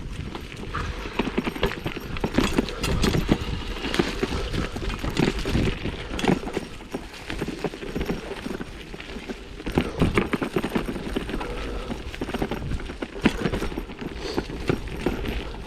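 A 1987 Specialized Stumpjumper mountain bike bumping over a rough dirt trail: dense, irregular knocks and rattles over a steady low rumble.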